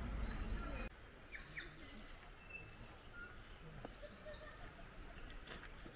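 Faint outdoor ambience with scattered short, high bird chirps and calls. A low rumble fills the first second and stops abruptly.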